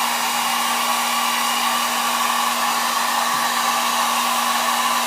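Hot-air blower running steadily, a constant blowing hiss with a low hum, heating the phone's glass to soften the screen adhesive.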